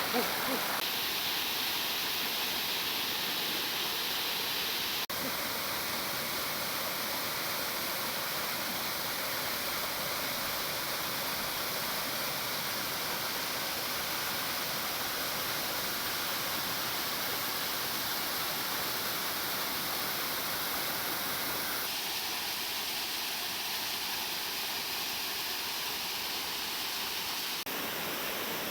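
Steady rushing of flowing water, which changes character abruptly a few times.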